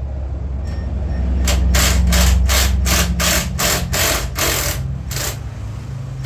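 Hand ratchet with a 12 mm socket clicking through about a dozen quick strokes, roughly three a second, starting about a second and a half in. It is loosening a bolt on a motorcycle's stock exhaust.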